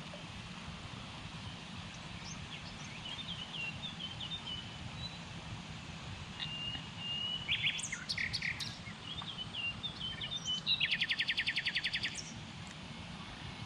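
Small songbirds chirping in short scattered phrases, with a fast, even trill about three-quarters of the way in, over a steady low background rumble.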